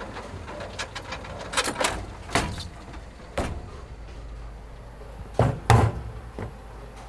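A series of sharp knocks and clacks, the loudest two close together about two-thirds of the way through, over a steady low rumble.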